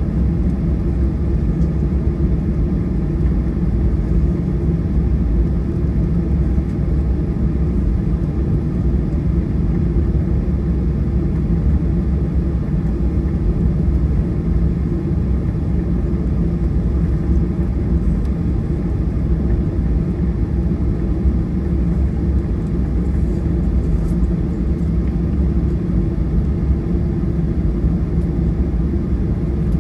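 Steady low rumble of a Boeing 737-800's CFM56-7B engines and airflow heard inside the cabin, holding an even level with no change in pitch.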